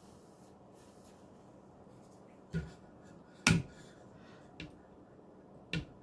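Four short, sharp clicks or taps spread over a few seconds, the loudest in the middle, over a faint steady hum: sharpening gear being handled while changing strops.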